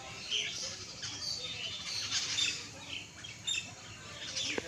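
Several small birds chirping: many short calls at varied pitches, overlapping one another.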